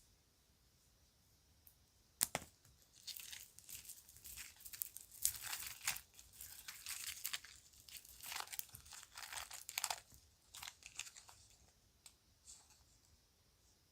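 Crinkly plastic packaging bag being handled and rustled, with one sharp snap about two seconds in, then a run of crisp crackling that dies away near the end.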